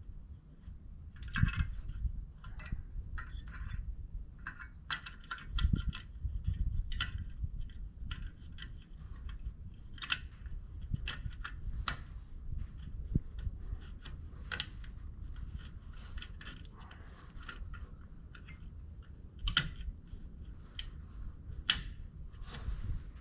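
Irregular clicks, taps and light rattles of small parts being handled as an LED bulb is worked into a tractor headlight housing, with a couple of dull thumps in the first few seconds.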